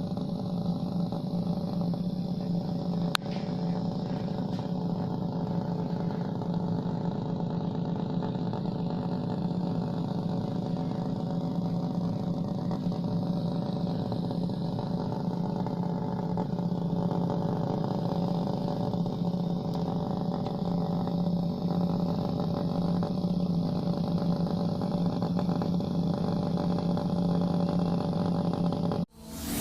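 A small motor running at a steady speed, an even hum that holds one pitch and cuts off abruptly near the end.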